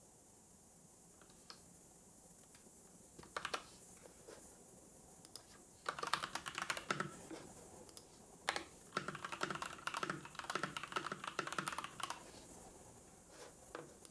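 Typing on a computer keyboard: a few scattered keystrokes, then two quick runs of typing, one about a second long and one about three seconds long, with a short pause between them.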